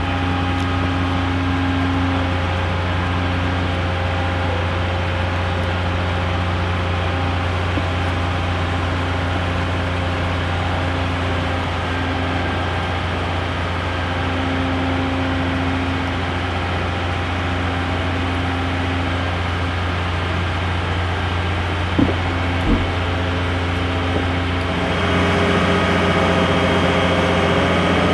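Heavy crane engine running steadily with a deep hum. Two short knocks sound a few seconds before the end, and the engine grows louder just after.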